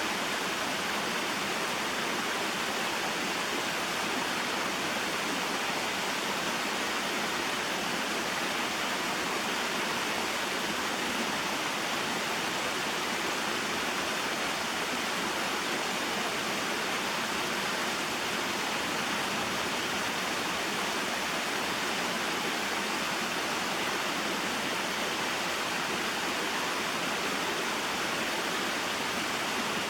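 Small waterfall and mountain stream: water falling and flowing over rocks in a steady, even rush.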